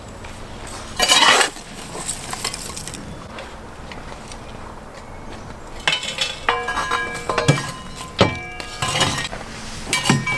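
Cookware and metal utensils clattering and clinking, with a brief loud scraping noise about a second in. From about six seconds in comes a run of ringing clinks.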